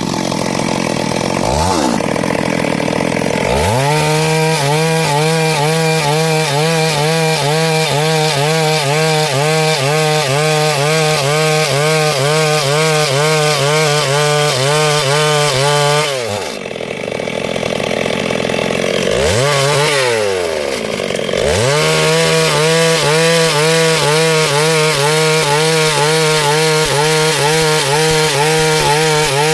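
Chainsaw running at full throttle while cutting along a wooden plank. Twice, near the start and again about two-thirds through, the engine drops to a low idle and then revs back up.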